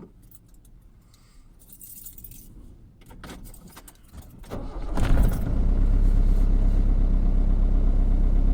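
Keys jingling and clicking in the ignition, then a Ford Transit van's engine starts about five seconds in and settles into a steady idle.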